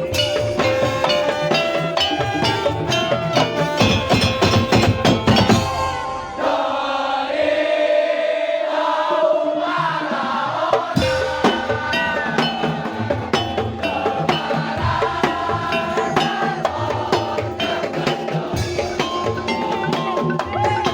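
Madurese daul (tong-tong) ensemble music: a dense percussion rhythm under melodic lines. About six seconds in, the drums drop out for a few seconds, leaving sustained, gliding melody. The full percussion comes back about eleven seconds in.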